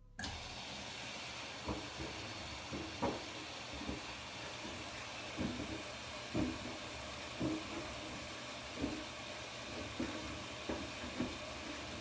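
Washing machine running a wash cycle with sneakers in a mesh bag: a steady rush of water and turning drum, with dull thuds roughly once a second as the bagged shoes tumble against the drum.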